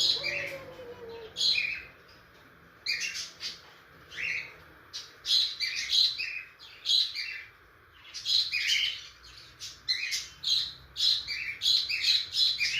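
Baby budgerigar chirping over and over during hand-feeding: short chirps in irregular runs, several a second at times, with brief pauses between runs.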